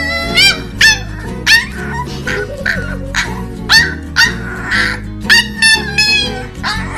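Corgi puppy yapping, a rapid series of about a dozen short, high-pitched yips, over background music.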